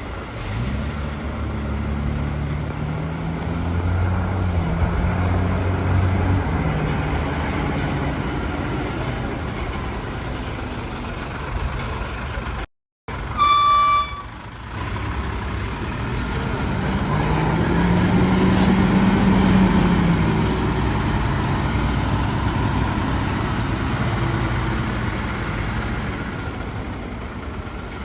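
A fire engine's engine running as it pulls out. After a brief cut about halfway through, there is a short, loud horn blast, and the engine then revs up and eases off.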